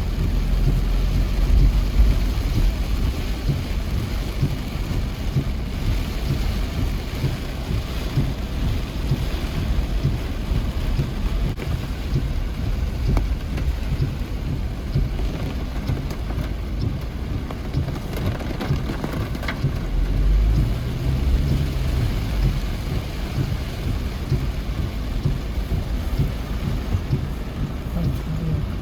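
Steady rain falling, with deeper low rumbles about two seconds in and again about twenty seconds in.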